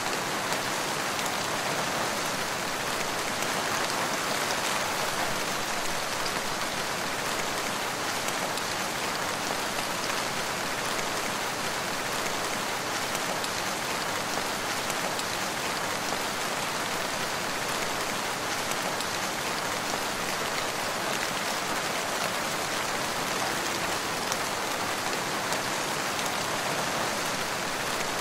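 Steady rain falling in a forest: an even, unbroken hiss with no single drops or thunder standing out.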